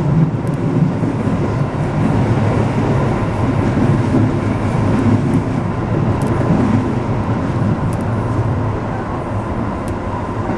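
JR 205-series electric commuter train running at speed, heard from just behind the driver's cab: a steady low rumble of wheels on rail and running gear.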